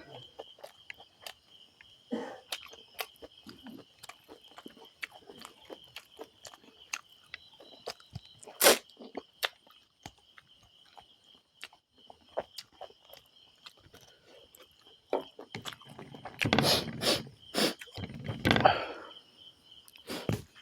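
Close-up eating sounds: scattered wet mouth clicks and chewing of rice and curry, with a sharper click about nine seconds in and a few louder noises a few seconds before the end. A faint steady high whine runs underneath.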